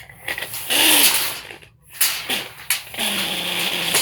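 Tape measure blade being run out and reeled back in three times, a rough rattling whir with a gliding tone from the spinning spool.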